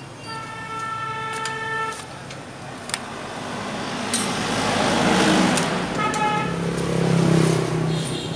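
A vehicle horn sounds twice: a steady note of about a second and a half, then a shorter one near the end. Between the two, the noise of a motor vehicle rises and passes, with a few sharp clicks.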